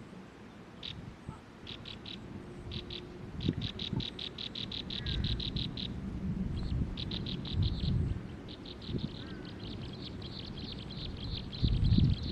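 Small birds chirping in rapid runs of short, high, evenly spaced chirps, several bouts of them, over low rustling and thumps; a louder low thump comes near the end.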